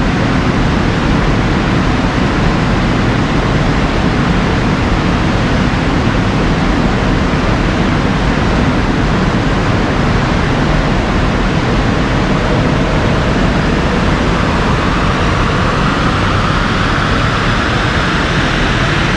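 Peugeot 208 1.6 BlueHDi diesel running under load inside a steady, loud rush of air noise. A whine rises in pitch over the last few seconds.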